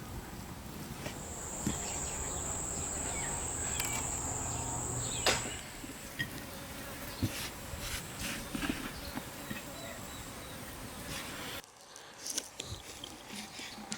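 An insect gives a steady, high-pitched trill for about four seconds, starting about a second in, over scattered light clicks and knocks. Near the end the background briefly drops away.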